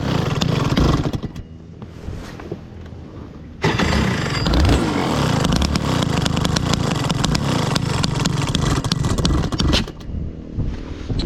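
Rotax Max 125 two-stroke kart engine running hard on track. About a second in the engine note falls away for a couple of seconds as the throttle comes off, then comes back suddenly under full load, and it eases off again near the end.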